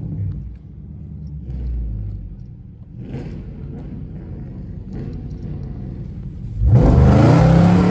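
Car engines rumbling low, then close to seven seconds in a car accelerates hard nearby and its engine revs loudly, rising in pitch.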